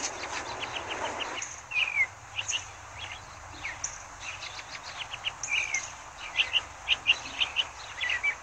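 Small birds chirping and twittering: many short, high calls scattered throughout, a few of them sliding downward in pitch. A soft hiss underneath stops about a second and a half in.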